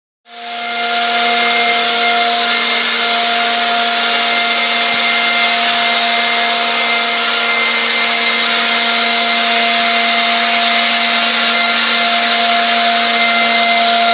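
A small electric motor blowing air: a steady, loud whining hum over a rush of air, which starts just after the beginning and builds up over about a second.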